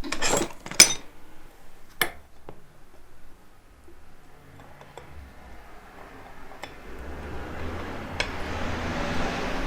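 Small parts of a pressure washer handled on a workbench: three sharp clicks and clinks in the first two seconds, then a rubbing noise that grows louder over the last few seconds.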